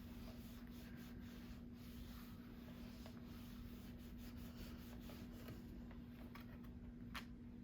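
Faint rubbing and scratching as a hand presses a photopolymer stamp down onto cardstock for a repeat impression, with a light tick or two about seven seconds in. A steady low hum runs underneath.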